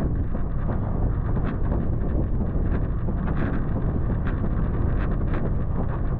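Toyota FJ Cruiser driving slowly down a trail in four-wheel drive: a steady low rumble with wind buffeting the microphone and scattered light clicks and knocks.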